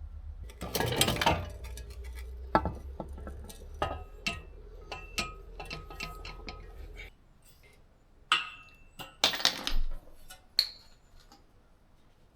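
Metal clanking and clinking as steel exhaust pipe sections and tools are handled, with a low steady hum that cuts off about seven seconds in.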